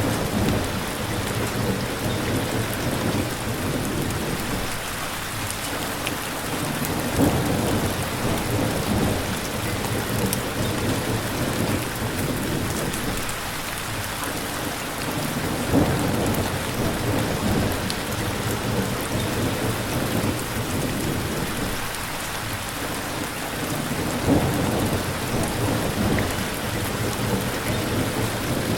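Steady rain falling, with low rumbles of thunder swelling up and fading about every eight seconds.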